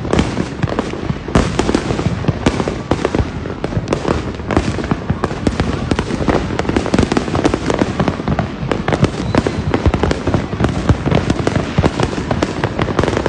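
Many fireworks going off at once: a dense, unbroken barrage of bangs and crackles with no pauses.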